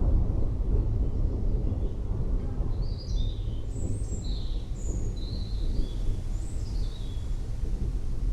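Thunder rumbling low and fading away after a loud peak just before, with birds chirping a string of short, high calls in the middle.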